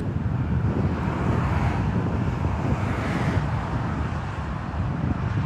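Motorway traffic passing below, a steady rumble of tyres and engines with wind on the microphone.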